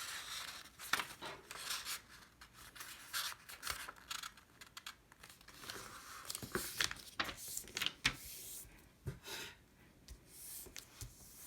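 A sheet of letter-size paper being folded in half and creased: irregular rustling with sharp little crackles as the paper is handled and pressed flat.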